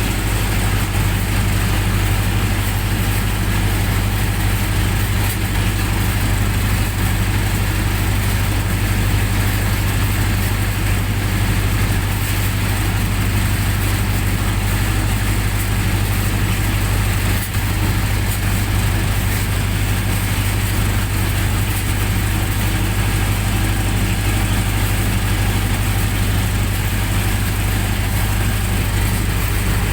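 Generator set engine running steadily at constant speed, a deep, even hum.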